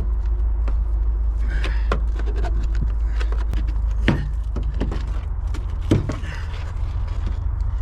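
Plastic door rubbing strips being pried off a car door, with scattered small clicks and two sharper knocks about four and six seconds in, over a steady low rumble.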